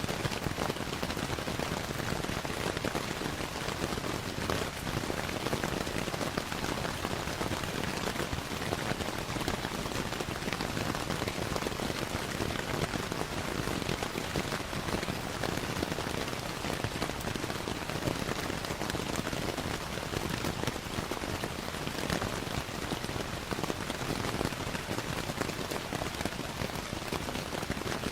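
Steady rainfall with a crackling wood fire blended in: an even patter with scattered small snaps, unchanging throughout.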